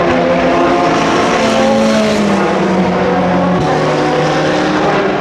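Endurance racing cars running at speed past the track, several engine notes overlapping and sliding in pitch. One note drops sharply about three and a half seconds in.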